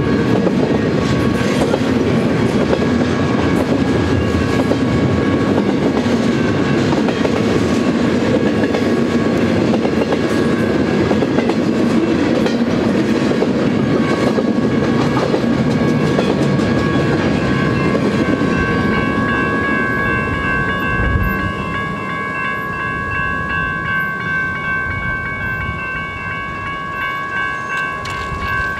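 Double-stack intermodal freight train passing over a grade crossing, its cars rolling along the rails, while the crossing's warning bell rings steadily. About two-thirds of the way through, the train noise drops off as the last cars clear, and the bell is left sounding on its own.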